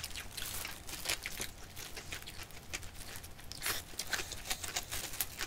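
Close-up mouth sounds of someone chewing a whole slice of spicy fish-cake kimbap (seaweed-wrapped rice roll): many small, irregular wet clicks and light crunches.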